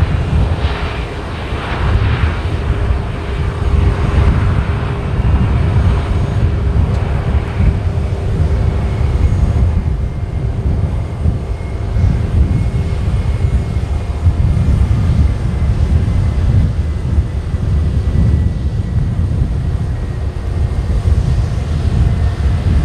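Boeing 737-800 airliner's jet engines running at high thrust in a steady roar with a faint whine, under a gusty low rumble of strong wind on the microphone.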